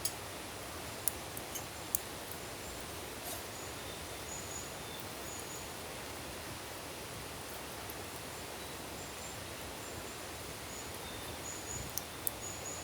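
A wood campfire crackling with a few sharp pops, over a steady rushing background of running water. Faint, short, high bird chirps come and go.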